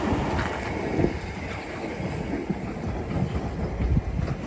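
Class 376 electric multiple unit rolling slowly along the track, a low rumble with irregular wheel clicks over rail joints and points.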